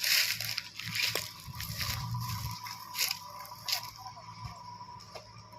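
Water dousing the burning ground in several short splashing bursts, the strongest near the start.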